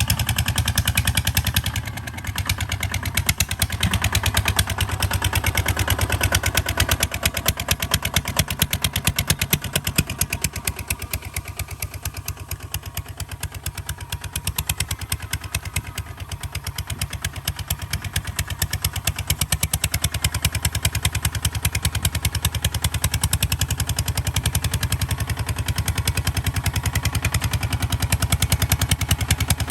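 Kubota ZT155 DI single-cylinder diesel engine running with a fast, even putting beat. It goes quieter for several seconds midway, then picks back up.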